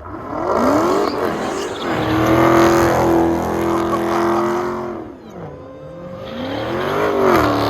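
Car doing donuts: engine revved hard and held high with tyres squealing. The revs drop away about five seconds in, then climb again near the end.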